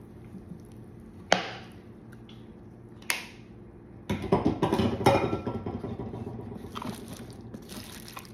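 Two sharp knocks, then a couple of seconds of busy clattering that fades: a sauce jar being knocked and shaken over the slow cooker to get the last of the sauce and stock out.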